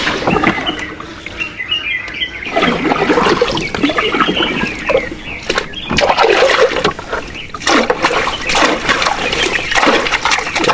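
Water splashing and trickling in irregular bursts, with short knocks between them.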